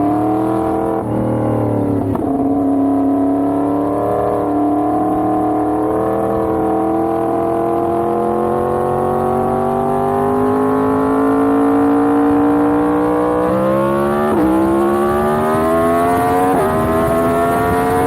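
Yamaha MT-10's crossplane inline-four running under acceleration: one upshift about two seconds in, a long slow rise in revs, then a quicker pull with two more upshifts near the end.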